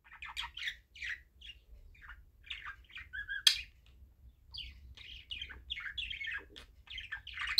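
A small bird chirping and twittering in quick, short, repeated calls, with one sharp click about three and a half seconds in.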